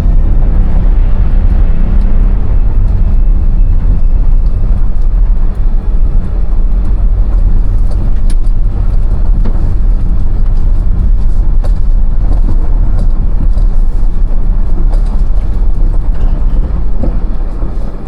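Suzuki Carry mini pickup running, a steady loud low rumble of engine and road noise.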